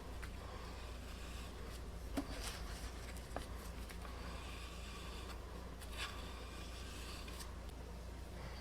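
Faint rubbing and scraping of hands working small turned wooden parts as epoxy is spread and the threaded insert is glued in, with a few light knocks, over a steady low hum.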